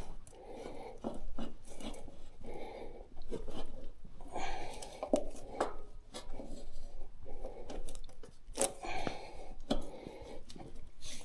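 Tyre levers and hands working a motorcycle tyre bead against its wheel rim: irregular rubber rubbing and scraping with occasional sharp clicks of metal levers on the rim.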